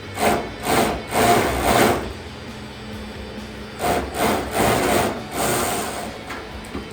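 Rasping strokes of a hand tool working on material, in two runs of four or five strokes each, about half a second apart, over faint background music.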